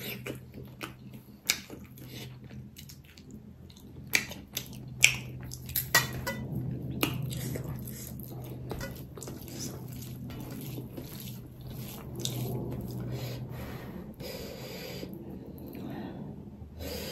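Close-miked chewing and wet lip-smacking as a person eats pork trotters and rice by hand, with many short smacks and clicks. A low steady hum runs underneath.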